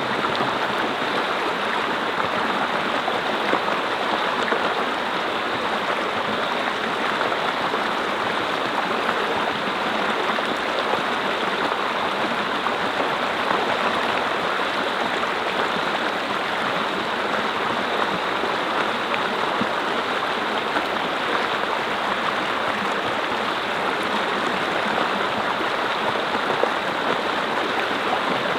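Mountain brook flowing over rocks: a steady rushing and babbling of water.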